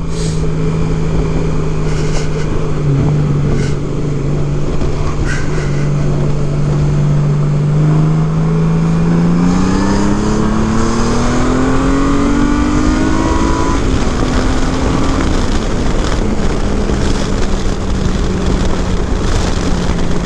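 2018 Honda Gold Wing Tour's flat-six engine running through modified stock mufflers. It holds a steady note for about nine seconds, then is pulled hard, and its pitch climbs for about four seconds before dropping back and settling at a steady cruise.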